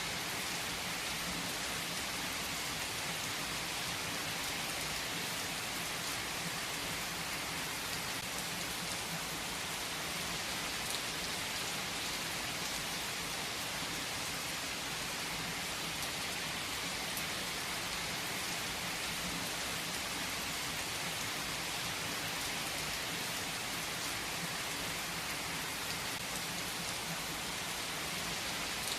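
Steady rain falling on a surface, a continuous even patter with scattered individual drops.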